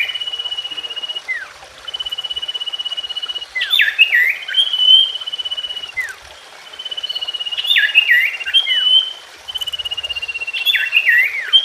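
Common iora (cipoh) song: a long, rapidly pulsed whistle of about a second and a half, followed by a few sharp downward-slurred notes, with the phrase repeating about every four seconds. This is a looped recording played to prompt young or silent captive ioras to sing.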